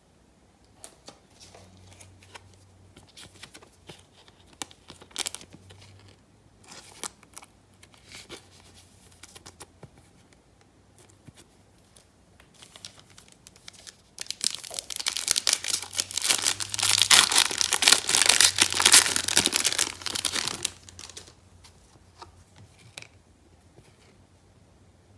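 Light rustling and clicking of trading cards and packaging being handled, then a loud stretch of tearing and crinkling of a foil trading-card pack wrapper being ripped open, lasting about seven seconds past the middle.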